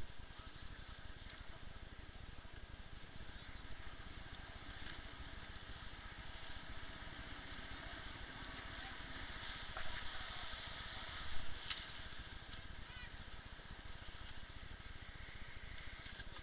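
Steady wind rumble on the microphone and a hiss of water aboard a small umpire boat on the water, with a few faint knocks. The hiss grows louder for a moment about two-thirds of the way through.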